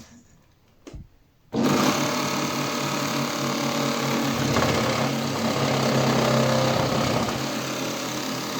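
Washing machine drain pump rig running as a generator: the motor spins up and runs with a steady buzzing whir, then stops near the end. A couple of light clicks come before it starts.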